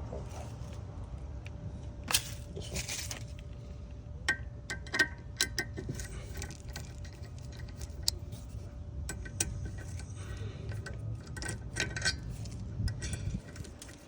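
Hand tools and brake parts clinking and rattling as they are handled, some strikes ringing briefly like struck metal, over a steady low background rumble.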